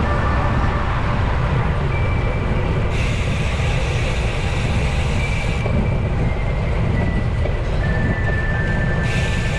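Wind rushing over the camera microphone on a moving road bike: a steady low rumble with a hiss on top that brightens for a few seconds about three seconds in and again near the end.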